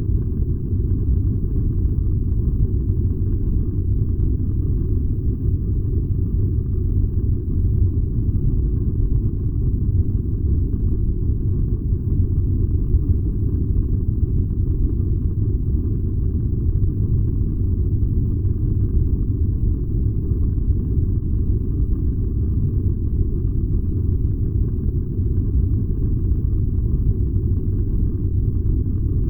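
A furnace running with a steady, low, even rumble that does not change.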